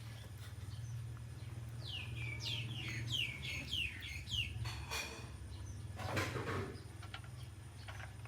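A run of six or seven quick, high-pitched chirps, each falling in pitch, over about two and a half seconds, followed by a couple of brief rustles, with a steady low hum underneath.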